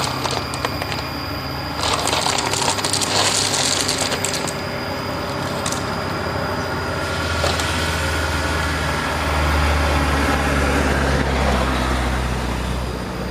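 Toy truck running steadily, with a loose clatter of stones for about two seconds starting about two seconds in; its low hum swells in the second half.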